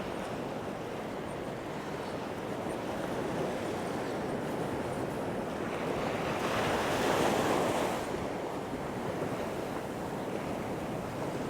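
Sea waves breaking and washing on a sandy beach, with one wave louder about two-thirds of the way through. Wind is rumbling on the microphone.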